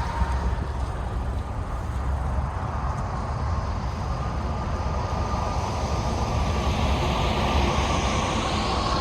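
Union Pacific diesel locomotive leading a short freight train, its low rumble running steadily, with a faint steady tone above it and a hiss of rolling noise that builds over the last few seconds as the train draws closer.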